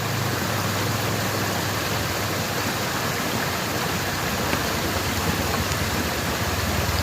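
Steady rush of water falling or running close to the microphone.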